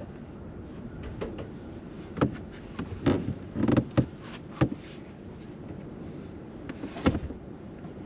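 Cookware being handled and set down: about half a dozen sharp knocks and clatters, the loudest about three to four seconds in and again about seven seconds in, over steady background noise.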